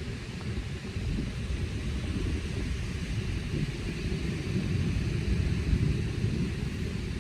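Wind buffeting the microphone in an uneven low rumble, over a steady higher hiss.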